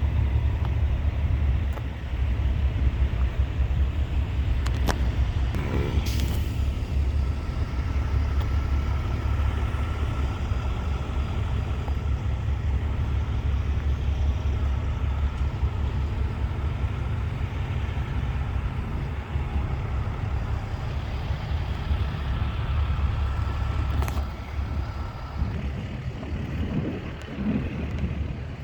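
Heavy truck engine running with a steady low rumble and a faint whine above it, broken by a few short sharp sounds, one of them about six seconds in.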